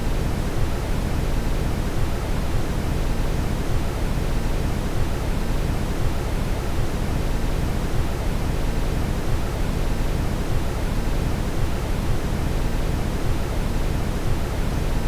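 Steady brown noise: an even, unbroken rushing hiss that is heaviest in the deep low end and thins out toward the treble.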